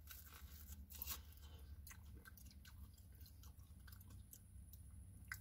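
Faint chewing of a flaky fried pastry pocket: a bite, then soft, irregular crunches as the crust is chewed.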